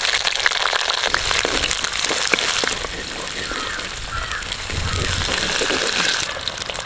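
Shallots and green chillies sizzling in hot oil in a clay pot, a steady hiss full of small crackling pops from the tempering.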